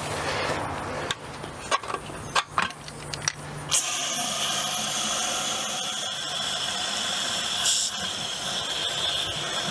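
A few knocks and clicks of handling, then about four seconds in a garden hose is turned on and water sprays with a steady hiss, flushing out a car radiator.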